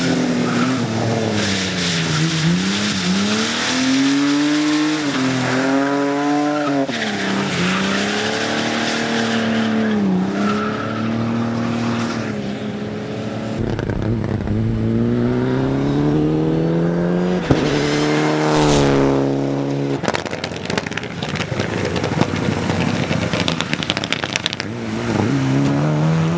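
Competition car's engine being driven hard through a slalom course, revving up and dropping back again and again every second or two. About two thirds of the way in, crackling noise takes over from a weaker engine note, and the engine revs up strongly again near the end.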